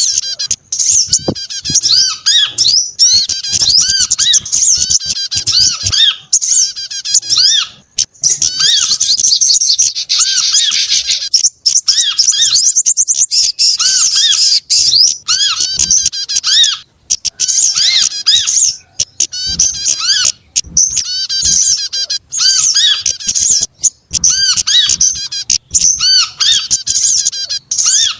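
Recorded calls of several small songbirds layered into a bird-trapping lure track: dense, rapid high chirps and trills with short arching notes repeating over and over, almost without a break.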